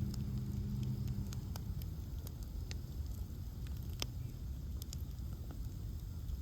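Bonfire of ash logs crackling, with scattered sharp pops over a low rumble; the loudest pop comes about four seconds in. A low steady hum fades out in the first second and a half.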